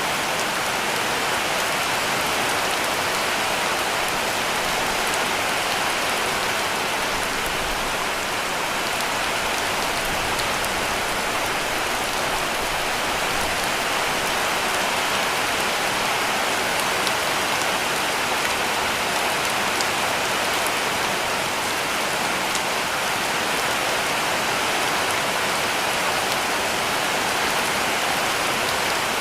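Heavy rain falling steadily on a cabin roof: a dense, even hiss of drops with a few faint separate ticks, unchanging throughout.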